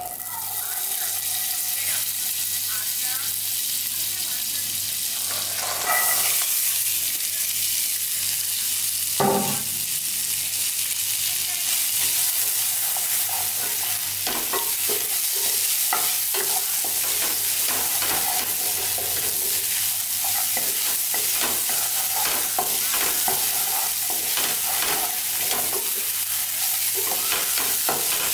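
Butter and sweetcorn kernels sizzling in a stainless steel frying pan, stirred with a spatula that clicks and scrapes against the pan. The sizzle gets louder about six seconds in, and there is a single knock a few seconds later.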